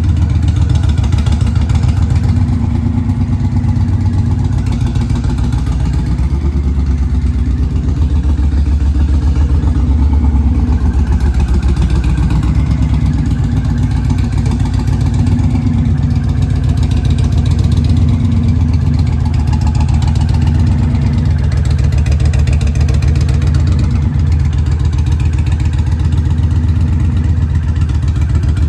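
Indian Challenger's V-twin engine running through an aftermarket Sawicki 2-into-1 exhaust, a deep, loud, fairly steady idle with only slight swells in level.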